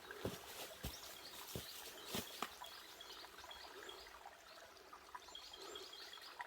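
Faint, high, short chirps from small birds, coming in quick runs, with a few scattered soft clicks.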